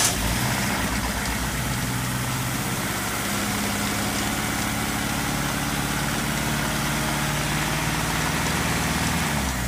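Dodge Neon four-cylinder engine idling steadily just after being started from a switch panel, fuel pump, ignition and starter each on their own toggle switch with no relays. Near the end the idle winds down as the engine is shut off.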